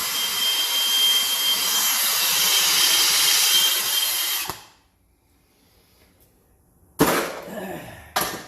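A power tool runs steadily with a thin high whine, then cuts off about four and a half seconds in. A couple of seconds later come a sharp metal clank and a second, smaller one.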